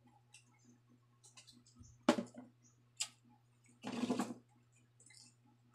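Close-up eating sounds of a person chewing: scattered lip smacks and small wet clicks, a sharp smack about two seconds in, and a louder, wetter mouth noise for about half a second around four seconds in.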